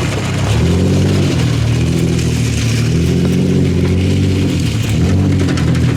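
Pickup truck engine running under load, its revs rising and falling several times as the truck drives.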